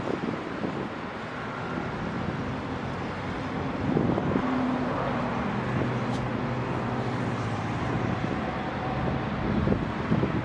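Cessna 208B Grand Caravan's turboprop engine running steadily, with wind gusting on the microphone.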